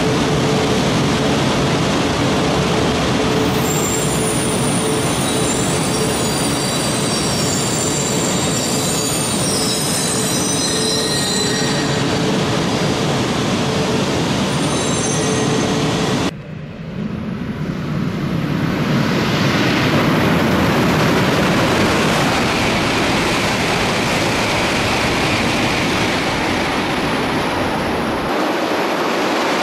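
E4 Series Max double-deck Shinkansen running through the station, its wheels and running gear giving a steady rumble with thin high squealing tones over it. After a sudden cut about halfway, a steady rushing noise builds and stays loud.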